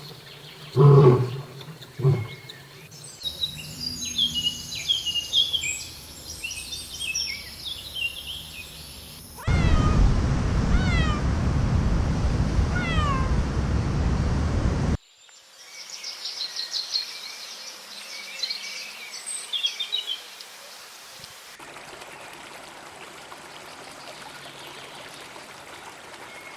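A run of separate animal-sound clips, mostly birds chirping and calling. A short, loud, low animal call comes at the very start, and in the middle a bird gives repeated falling whistles over a loud rushing noise. The last few seconds hold only a faint hiss.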